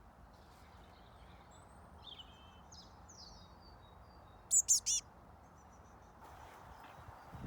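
Fledgling blue tit giving three loud, high chirps in quick succession about halfway through, with fainter sliding calls of other birds just before.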